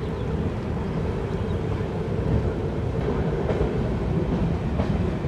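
Moving passenger train heard from the open coach door: a steady rumble of the wheels on the rails, with a few faint clicks in the second half as the coach runs over the points.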